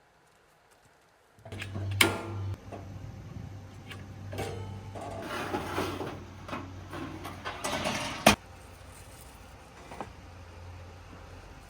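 A motor starts up suddenly and runs with a low steady hum, while objects are handled with clattering and two sharp knocks, one about two seconds in and one near the eight-second mark.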